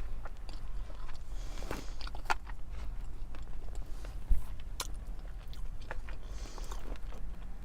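A person chewing sushi close to the microphone, with scattered small mouth clicks.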